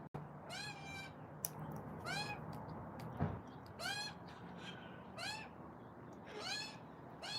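An animal giving a series of short pitched calls, each rising then falling, about one every second and a half.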